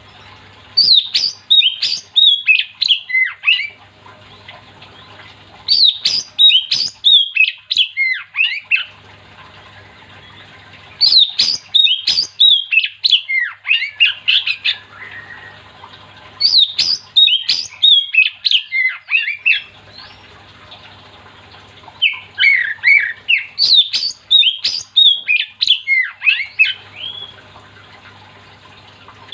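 Oriental magpie-robin (kacer) singing in five loud bouts of rapid, varied whistled notes, each bout lasting three to four seconds with short pauses between. A faint low hum fills the pauses.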